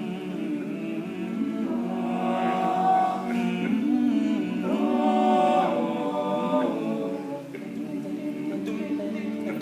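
A cappella vocal group singing the song's interlude in wordless close harmony, several voices holding and shifting chords with no instruments.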